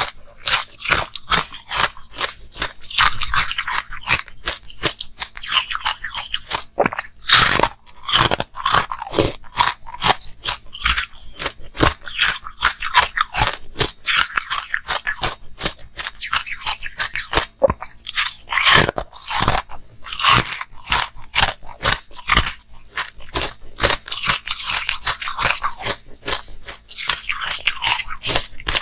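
A person biting and chewing food, a continuous run of crisp crunching and crackling mouth sounds.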